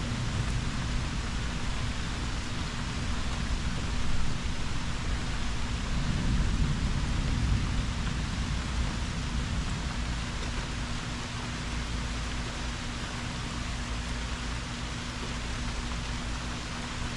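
Steady rain with low rumbling thunder that swells twice in the first half and dies away by about the middle.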